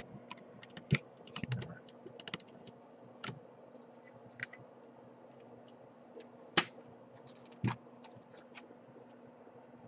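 Scattered sharp clicks and snaps as an HP Envy 15 laptop's case is pried open, the loudest about a second in, about three seconds in, and twice between six and eight seconds. A faint steady low hum runs underneath.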